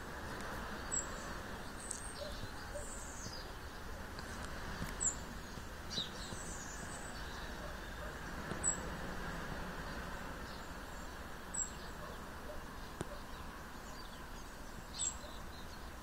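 Birds chirping and calling in short, high notes every few seconds, over a steady background hiss.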